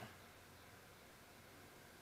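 Near silence, with only a faint steady background hiss.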